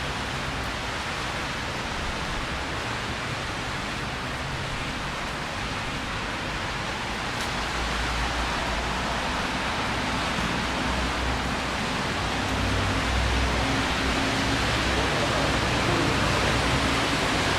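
Steady hiss of rain falling on a street, with a low rumble that grows louder about halfway through.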